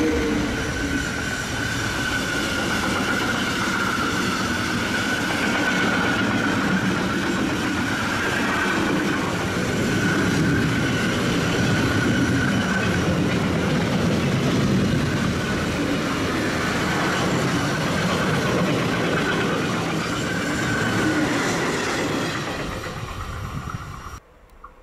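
A train passing at close range, its wheels rolling on the rails with a steady high squeal through most of the pass. The sound cuts off suddenly near the end.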